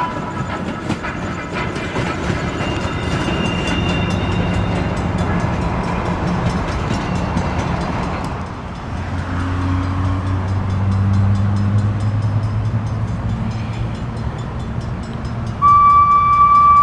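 A train running past, its wheels clicking over the rail joints in an even rhythm over a steady rumble. A loud, steady high tone starts about a second before the end, typical of a train's horn.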